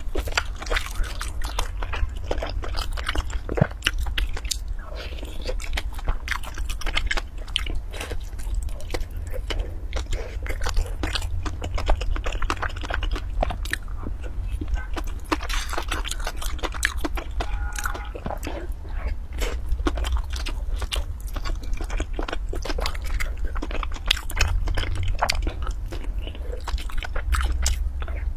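Close-miked mouth sounds of a person eating soft dessert from a spoon: chewing with many irregular small wet clicks and smacks, over a steady low hum.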